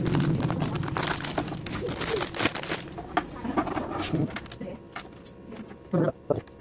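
Small plastic pieces clattering, clicking and rustling as they are handled, with a scatter of sharp clicks that thins out after about three seconds.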